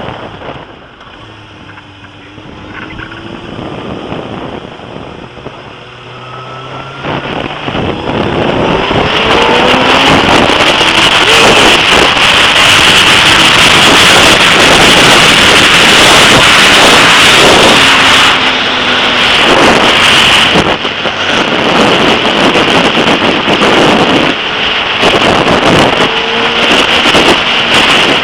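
Suzuki GSX-R sports bike engine accelerating and changing gear, its pitch rising and dropping repeatedly. From about eight seconds in, heavy wind noise on the camera microphone builds with speed and drowns much of the engine.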